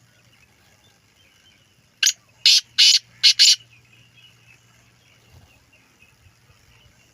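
Black francolin calling: a quick series of five loud, harsh, grating notes over about a second and a half, starting about two seconds in.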